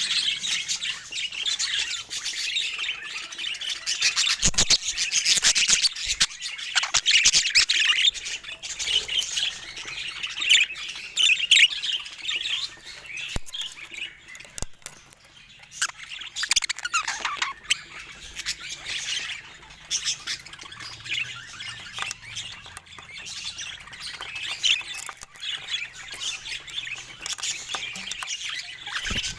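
Budgerigars chattering: a busy, unbroken stream of quick chirps and squawks, busiest in the first dozen seconds, with a few sharp ticks among them.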